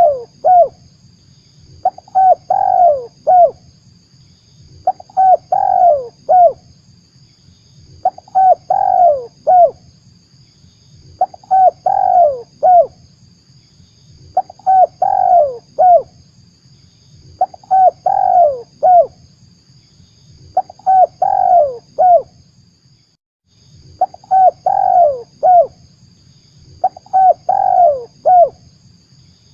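Spotted dove (tekukur) cooing its repeated song phrase, a few quick coos each time, about once every three seconds: a lure call used to draw wild doves into a trap.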